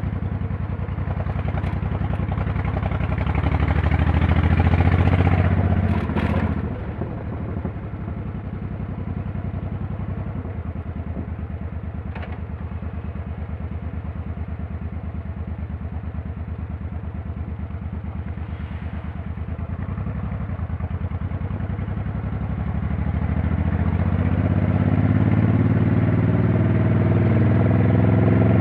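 Motorcycle engine running under way. The revs build, fall off sharply about six seconds in, hold steady through the middle, then climb again for the last few seconds as it accelerates.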